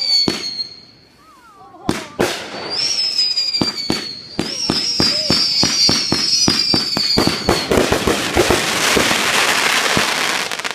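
Fireworks going off: sharp bangs, high whistles that fall slightly in pitch, and a rapid run of pops building into a dense crackle near the end.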